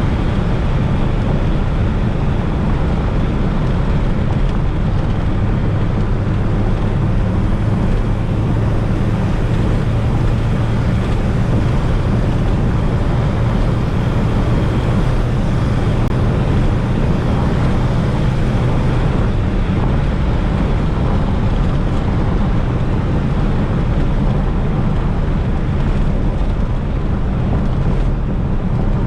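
Fiat Coupe 16V Turbo's turbocharged four-cylinder engine and road noise while driving at a steady pace, with a strong low drone and no sharp changes in revs.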